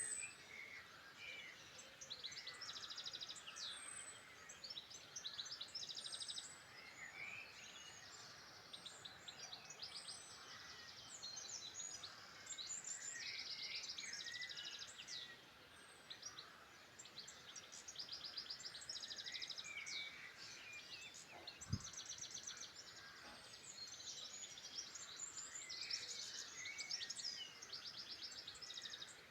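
Several songbirds singing at once in a dawn-chorus-like mix of overlapping trills, chirps and rapid repeated notes. A single short thump is heard about 22 seconds in.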